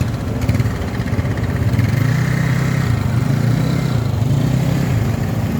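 Motorcycle engine running steadily as the bike is ridden, a low drone that grows a little stronger about two seconds in.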